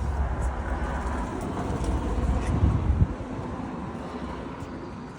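Wind buffeting the microphone: a low rumble, strongest for the first three seconds, then easing off.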